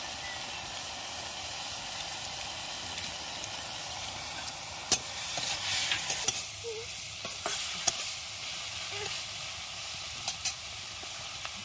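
Small shrimp sizzling in oil in a metal kadhai while a spatula stirs them, with a few sharp clicks and knocks of the spatula against the pan from about halfway through.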